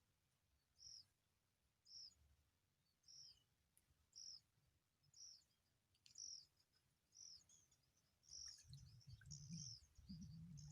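Faint, short high-pitched bird call repeated about once a second. Near the end other chirps join in and a low rumble starts.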